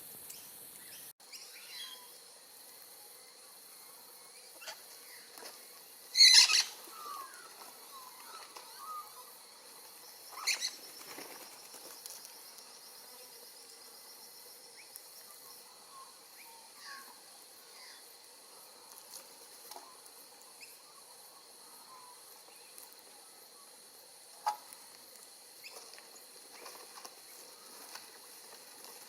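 Wild Australian king parrots flapping their wings and giving faint short chirps, with a loud burst of flapping about six seconds in and a smaller one about ten seconds in. A steady high insect drone runs underneath.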